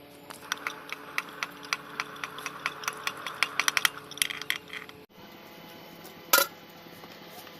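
Light metallic clicks and clinks of metal tools and engine parts being handled, coming quickly one after another for about five seconds, then a single sharper knock.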